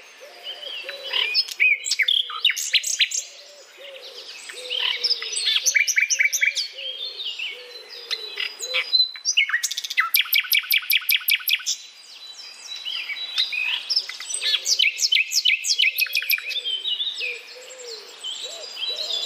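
Several songbirds chirping and singing over one another, with fast runs of rapidly repeated high notes.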